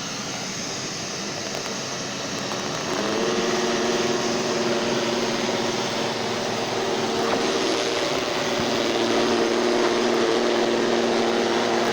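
Robot vacuum cleaner running with a steady rushing noise; about three seconds in, a steady motor hum with a clear pitch joins and the sound gets a little louder.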